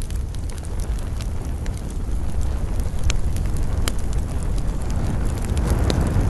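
Campfire of burning wood with a steady low rumble and scattered sharp crackles and pops, about five in a few seconds.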